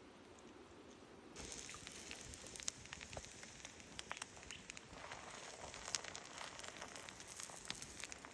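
Small campfire crackling: a dense hiss with many sharp pops and snaps. It starts abruptly about a second and a half in, after a faint quiet background.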